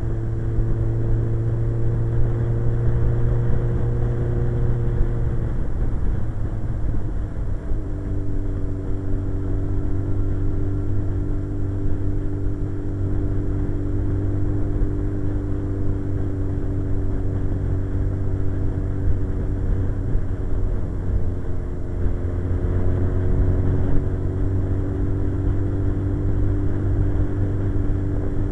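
Suzuki GSX-R 1100 inline-four motorcycle engine running steadily at cruise, heard from the rider's seat. The engine note drops about five or six seconds in, then holds steady at the lower pitch.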